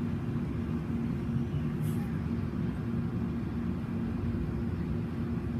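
Steady low mechanical hum over a rumble, holding two even tones.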